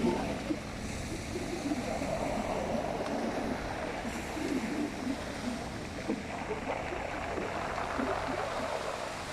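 Sea water washing against the shore, a steady rushing.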